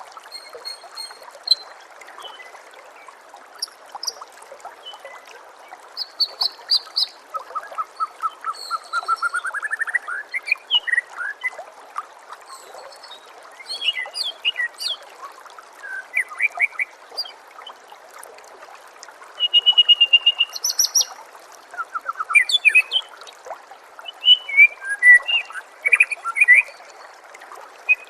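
White-rumped shama (murai batu) singing varied whistled phrases and rapid trills, including a rising trill about a third of the way in and a loud run of fast repeated notes about two-thirds through, over a steady trickle of running water.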